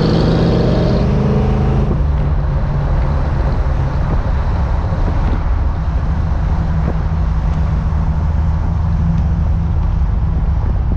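Car engine running steadily while driving, with road and wind noise; the higher hiss drops away about two seconds in.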